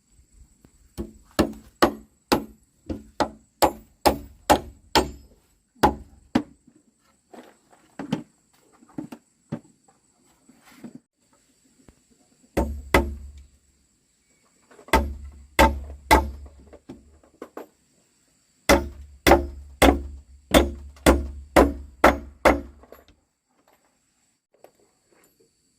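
Hand tool striking wood over and over, in runs of quick blows about two or three a second with short pauses between runs, each blow a sharp knock with a dull thump under it.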